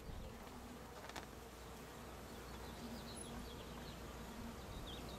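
Honeybees buzzing around an open hive as a frame is held out for inspection: a faint, steady hum, with a single light click about a second in.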